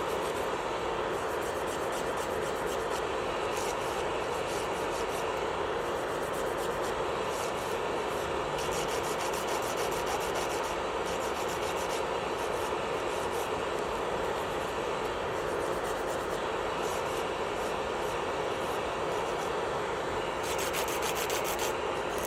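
Electric nail drill (e-file) running at a constant speed with a steady hum, its bit filing against a nail. Patches of finer scratching come and go, the most distinct shortly before the end.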